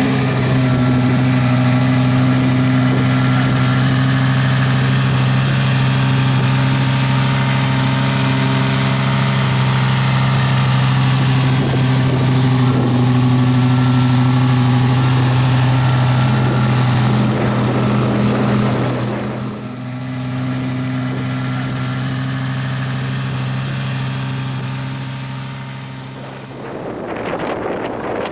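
Lamborghini Gallardo V10 with a Capristo exhaust idling steadily, a loud even drone. Near the end the engine sound gives way to wind buffeting the microphone.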